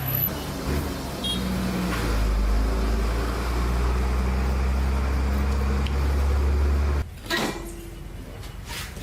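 A motor or machine running with a steady low hum, cutting off suddenly about seven seconds in, followed by a single knock.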